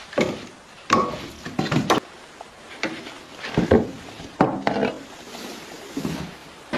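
Irregular series of chopping strikes on wood, about a dozen sharp hits, each with a short ring, some in quick pairs.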